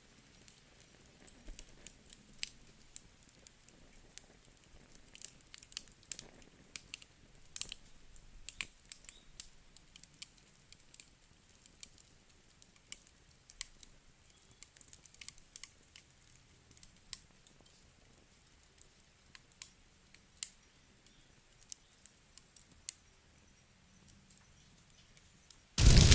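Wood fire crackling: sparse, irregular sharp pops and ticks from burning logs. In the last moment a much louder, steady rushing noise starts abruptly.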